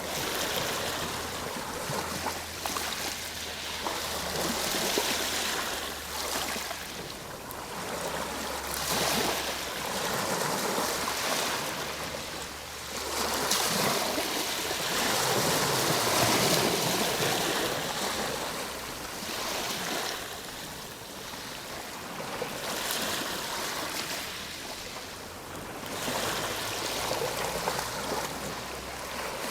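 Ocean waves breaking and washing up on a shore, the surf swelling and easing every few seconds.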